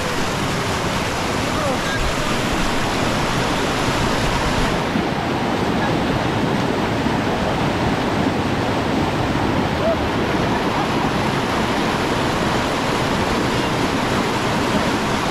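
Mountain river water rushing over rocks: a steady, loud rush without a break.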